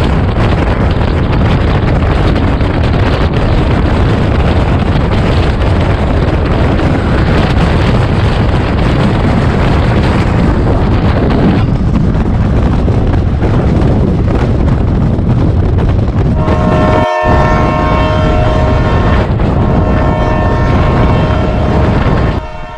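Rumble and rush of an express train running at speed, with wind buffeting the microphone. About two-thirds of the way through, a train's multi-tone horn sounds, breaks off briefly, then sounds again for several seconds.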